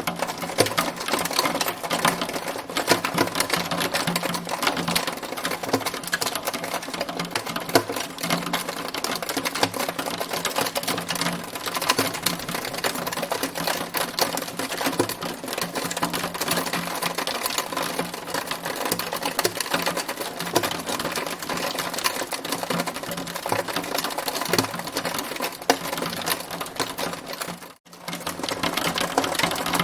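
Hailstones pelting a hard surface in a dense, continuous clatter of countless small ticking impacts. The sound drops out briefly near the end.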